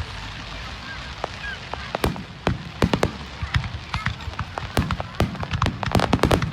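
Fireworks display going off: a few scattered bangs, then from about two seconds in a rapid, dense run of sharp cracks and pops.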